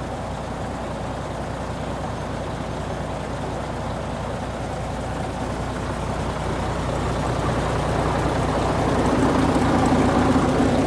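MAN TGA truck's diesel engine idling: a steady low rumble that grows louder over the last few seconds.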